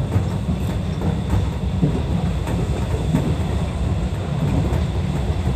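Seibu 101-series electric train running along the line, heard from inside the front of the car: a steady low rumble of wheels on rails with occasional faint clicks.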